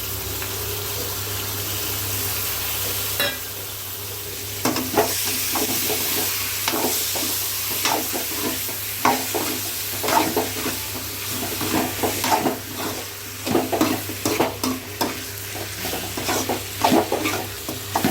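Chicken frying in a pan with onion, ginger-garlic paste and pepper masala, sizzling steadily. From about five seconds in, a spatula stirs and scrapes the pan over and over in an irregular clatter.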